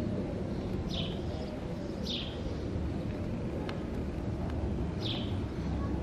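Outdoor ambience: a steady low rumble under a bird giving three short, falling chirps, about one, two and five seconds in.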